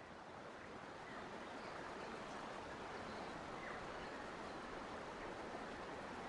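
Forest nature ambience: a steady rushing, water-like noise with a few faint bird chirps, swelling in over the first second or so and then holding level.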